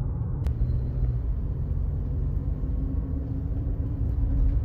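Car interior noise while driving: a steady low rumble of road and engine.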